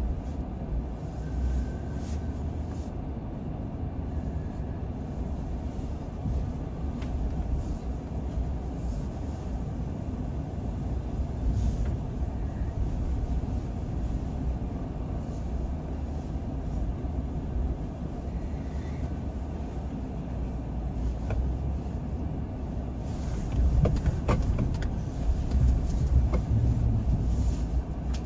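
Car driving: a steady low rumble of tyres and engine on the road, growing louder with a few knocks about three-quarters of the way through.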